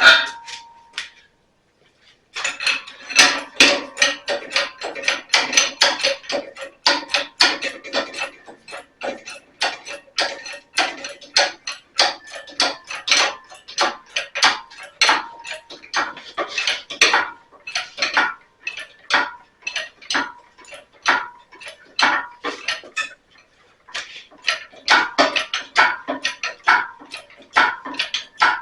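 Metal tools clinking and clanking against metal, irregular sharp knocks several a second, with brief pauses between runs.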